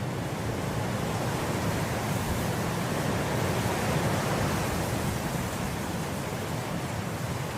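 Wind blowing through grass, a steady rushing that swells to a gust about halfway through and then eases.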